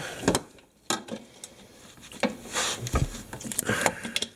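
Metal hand tools clinking and scraping, with several sharp clicks and knocks and a duller thump about three seconds in, while a wrench is being put to the oil drain plug of a Kymco MXU 450 ATV.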